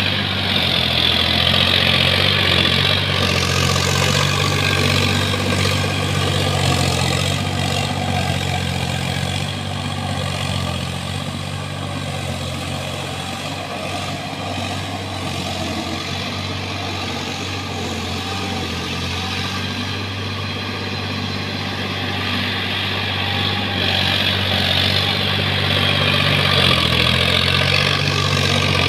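Sonalika tractor's diesel engine running steadily at a low, even speed, growing a little louder in the first few seconds and again near the end.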